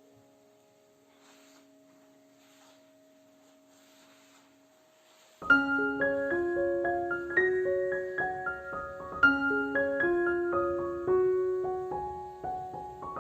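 Background piano music: after a few seconds of faint sustained tones and soft rustling, a gentle piano melody of single notes over held chords comes in suddenly about five and a half seconds in.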